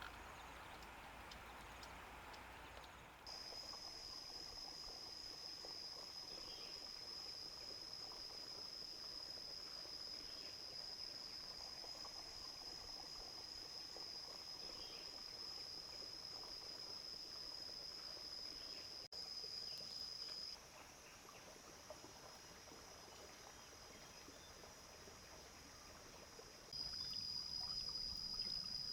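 Insects buzzing in a steady, high-pitched drone over faint background hiss; the drone starts a few seconds in, cuts out abruptly past the middle and comes back near the end.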